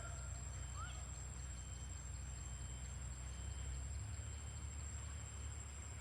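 Steady, high-pitched insect chorus, like crickets trilling, over a low rumble.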